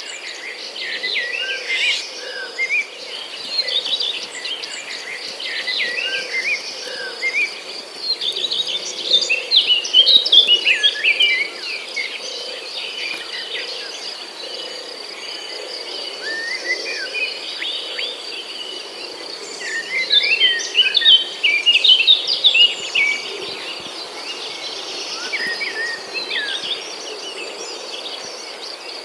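Several songbirds chirping and singing in short sweeping phrases, busiest in two spells about a third and two thirds of the way through, over a steady high trill of insects.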